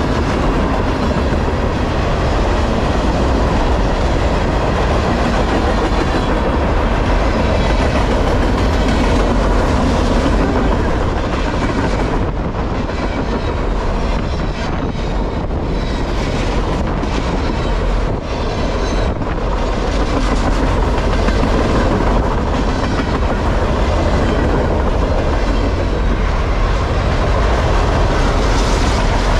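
Freight train cars rolling past at trackside: a steady loud rumble of steel wheels on rail, with repeated wheel clicks over rail joints midway.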